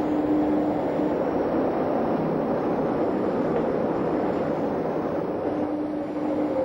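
Jungfrau Railway electric rack train running steadily uphill through the rock tunnel: a continuous even rumble, with a faint steady hum at the start and again near the end.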